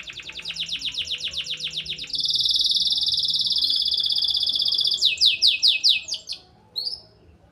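Domestic canary singing, just out of its moult and back in song: a fast run of repeated notes, then a loud, steady rolling trill, then about five quick downward-sliding notes, tailing off into a couple of short chirps near the end.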